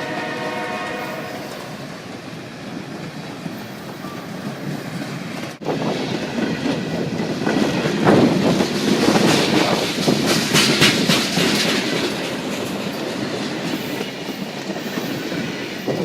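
CSX freight train passing close by, its wheels clattering and clacking over the rail joints in a steady rumbling rattle that grows louder about halfway through. A locomotive horn chord fades out in the first second.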